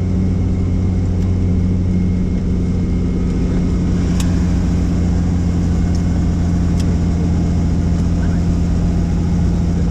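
Tour helicopter's turbine and rotor running with a loud, steady low drone. Two short sharp ticks come about four and seven seconds in.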